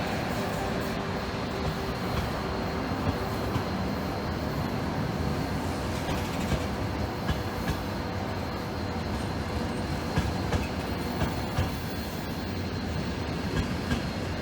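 Train rolling past along the station tracks: a steady low rumble of wheels on rail, with repeated sharp clacks, often in close pairs, as the wheels cross rail joints and points. A faint steady whine is heard in the first few seconds.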